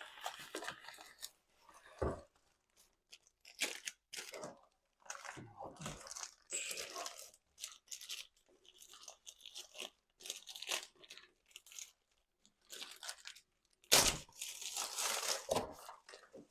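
Irregular workshop handling noises: short scrapes, rustles and clicks, with a sharp knock about two seconds in and a louder one near the end.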